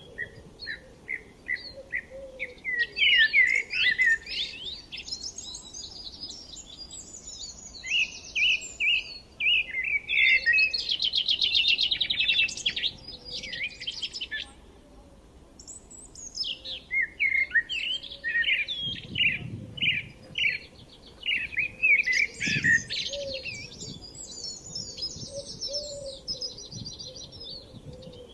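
Several songbirds singing and chirping together in a dense chorus of quick chirps and rapid trills, with a short lull about halfway through.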